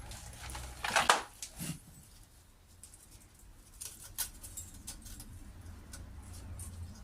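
Short scraping clatter about a second in, then a few light clicks, as metal tools or engine parts are handled, over a low steady hum.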